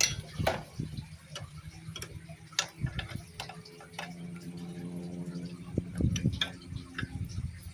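Scattered light clicks and taps of hand tools and metal parts being handled during motorcycle engine work, over a low steady hum.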